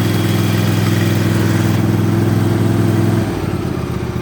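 Husqvarna riding mower's small engine running steadily at a high speed, then dropping to a slower, lower idle about three seconds in.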